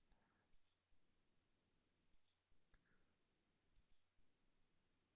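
Near silence with a few faint computer mouse clicks, each a quick pair of clicks, about every second or two.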